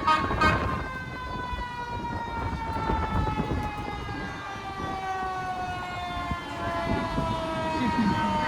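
A siren winding down, its wail falling slowly and steadily in pitch, over the low rumble of passing trucks.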